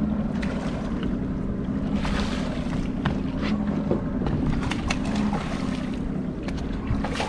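Steady low hum of a boat's motor running slow, under wind buffeting the microphone and water washing against the hull, with a few faint clicks.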